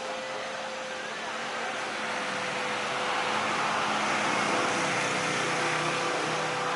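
Road traffic noise that grows louder from about two seconds in, with a steady hum underneath.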